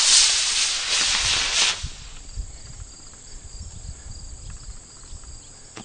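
Model rocket motor firing on launch: a loud rushing hiss that stops about two seconds in. Crickets or other insects chirp steadily underneath.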